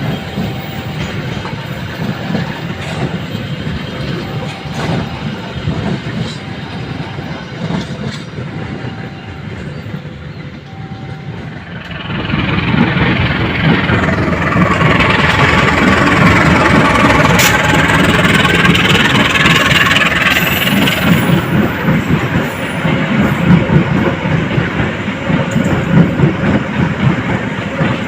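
A train on the rails: a steady rumble at first, with a faint short beep repeating about every two seconds. About twelve seconds in the sound grows suddenly much louder, with rushing, clattering wheel-on-rail noise that continues to the end.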